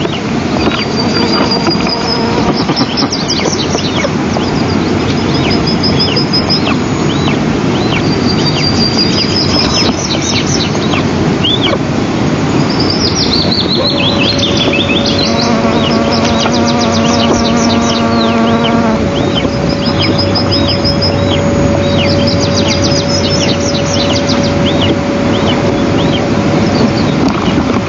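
Wind rushing over an outdoor microphone, with small songbirds singing repeated high chirps and trills. About halfway through, a steady droning tone sets in and holds; for a few seconds a buzzier note rides over it.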